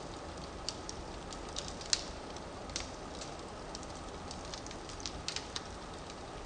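Firewood burning in a fireplace: a steady low hiss with irregular sharp crackles and pops, the loudest about two seconds in.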